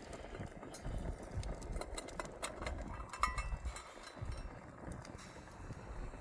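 Scattered light clicks and knocks over a low rumble, with one brief clink about three seconds in.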